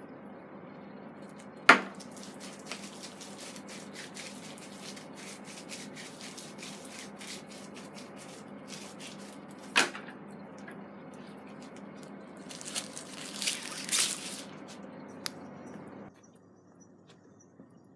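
Raw meat being pushed onto a wooden branch skewer: small wet squelching and rubbing sounds with two sharp knocks of wood, and a cluster of louder scrapes near the end. A steady hiss behind it cuts off suddenly shortly before the end.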